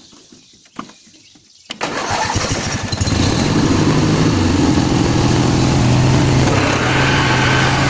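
1995 Lowe's 18-44 riding mower's 18-horsepower twin-cylinder engine being cranked by its starter about two seconds in. It catches after about a second and settles into a steady run, starting easily.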